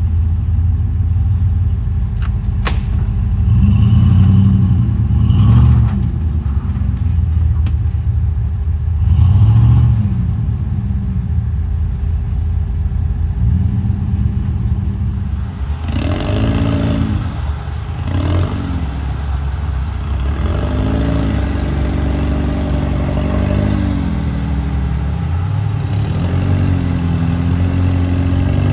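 Off-road truck engine running under load, revving up and down in repeated surges as it crawls over rocks, with a few sharp clicks in the first several seconds.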